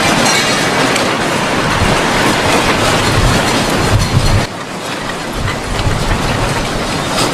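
Loud rumbling and clattering of a building and its contents shaking in an earthquake, with a dense rattle of objects knocking together; it drops to a quieter rattle about four and a half seconds in.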